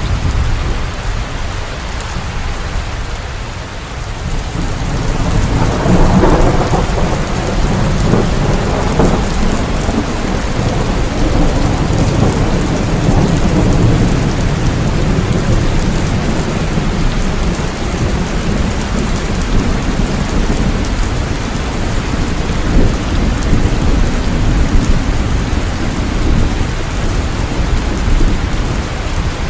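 Steady heavy rain with low rolling thunder rumbling underneath, swelling about five seconds in and rumbling on.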